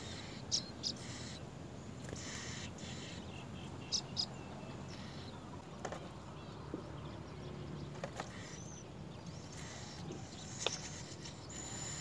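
Small songbirds at a nest giving short, high chirps, mostly in pairs, a few times over a steady background hiss.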